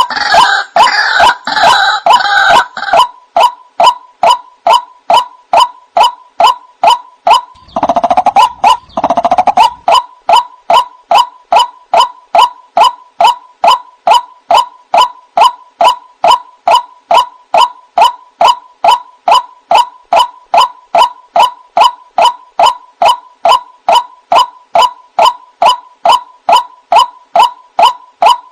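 White-breasted waterhen (ruak-ruak) calling as a lure recording: the same short, sharp note repeated monotonously, about three a second. The first few seconds are a harsher, rougher chorus, and a couple of lower, throaty calls break in about eight seconds in.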